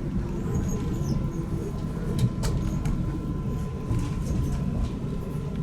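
Train noise: a steady low rumble with a few light clicks and knocks, and a brief faint high tone about half a second in.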